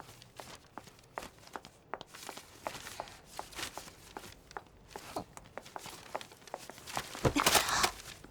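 Footsteps on a hard floor, a run of short clicks about two or three a second, followed by a louder rustling scuff about seven seconds in.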